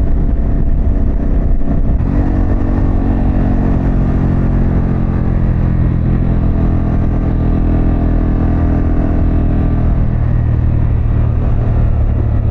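Harley-Davidson Pan America's V-twin engine running through a Vance & Hines exhaust while riding. Its note comes through clear and steady about two seconds in and settles lower and softer near the end, as the bike eases off.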